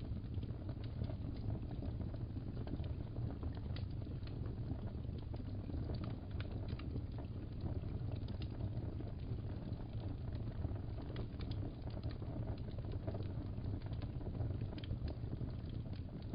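Fireplace crackling steadily: a low, even rumble with scattered small pops and snaps throughout.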